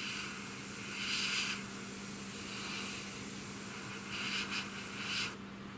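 Airbrush spraying paint in a steady hiss, stronger at the start and again near the end, then cutting off; a low steady hum runs underneath.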